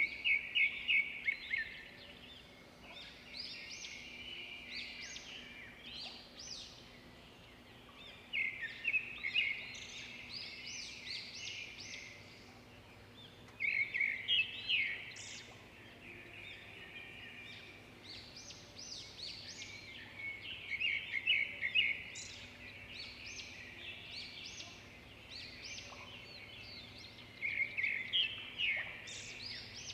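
Small birds chirping in repeated bursts a few seconds apart, over a faint steady hum.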